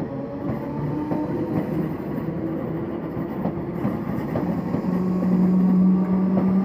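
Merseyrail Class 508 third-rail electric multiple unit pulling away, its traction motors giving a steady hum. Scattered clicks from the wheels run under it. A strong steady low tone comes in and grows louder about five seconds in.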